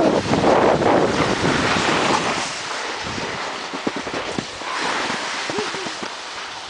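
Wind rushing over the microphone of a camera carried by a moving snowboarder, loudest for the first couple of seconds and then easing off.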